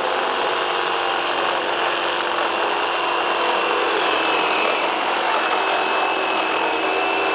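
Hilti SR 30-A36 cordless reciprocating saw running steadily with a high motor whine.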